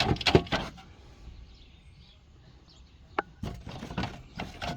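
A few clicks and clatters of metal parts being handled, with one sharp ringing clink about three seconds in.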